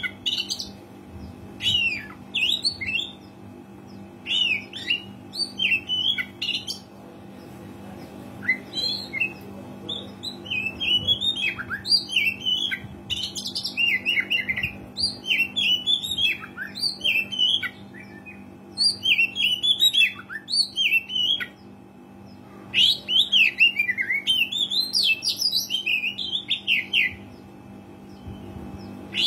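Oriental magpie-robin (kacer) singing in lively bouts of rapid, varied whistles and chirps, with short pauses between bouts, over a steady low hum.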